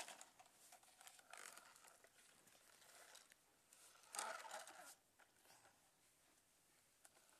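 Near silence broken by a few faint rustling handling noises, the loudest about four seconds in: small plastic toys being moved about.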